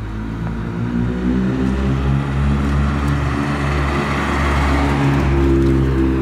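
A car engine running at fairly steady low revs, growing gradually louder over the first five seconds or so as it draws closer.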